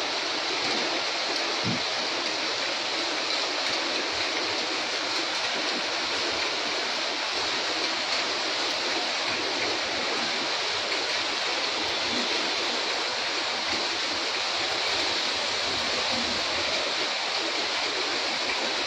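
Steady rain falling, an even hiss with no breaks or separate hits.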